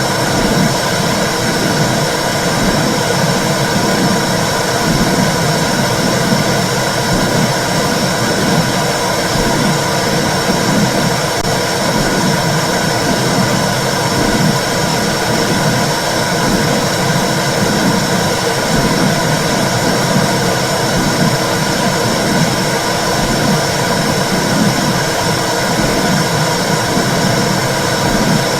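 Womb sound for soothing a baby: a steady, loud whooshing rush with a rhythmic pulse running through its low part, like blood flow and heartbeat heard from inside the uterus.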